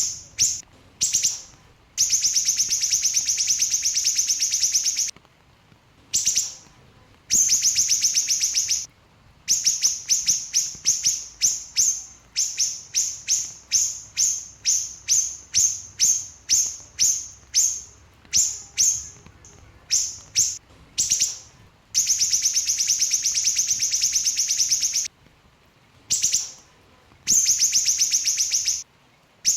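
Small siri-siri songbird calling in rapid high-pitched chatter: long, dense trilled bursts of several seconds alternate with runs of short, sharp notes about two a second, the fast close-set 'shooting' delivery that keepers call nembak speed rapat.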